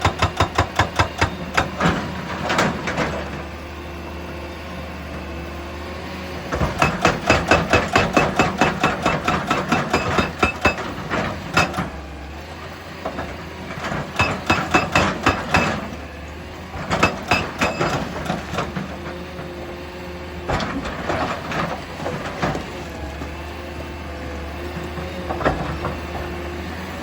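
Excavator engine running steadily, broken by several bursts of rapid, regular metallic knocking at about five knocks a second, each burst lasting one to four seconds.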